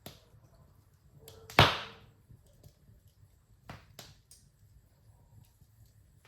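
Wood fire in a fireplace crackling, with scattered sharp snaps and one loud pop about a second and a half in that trails off in a brief hiss.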